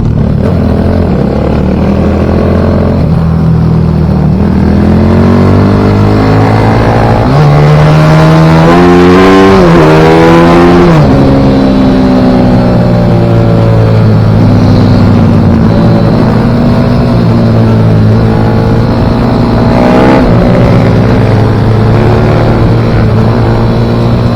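Pit bike engine running hard at racing speed, with its note rising and falling. About a third of the way in, the pitch climbs for a few seconds and then drops sharply; otherwise it holds a steadier, wavering note.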